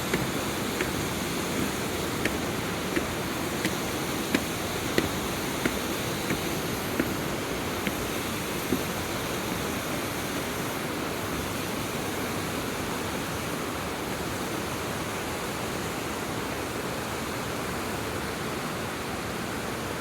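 Steady rush of a mountain stream and waterfall. Through the first half, sharp ticks come about every three-quarters of a second, then stop.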